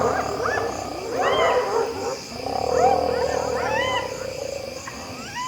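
A pack of spotted hyenas giggling, yelping and whooping over one another in many overlapping rising-and-falling calls, thickest in the first couple of seconds. This is the noisy mobbing that hyenas use to drive a lion off its kill.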